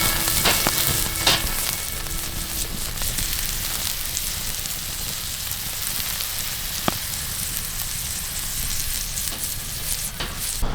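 Burger frying over a campfire in a campfire burger maker: a steady sizzle with a few sharp pops from the fire.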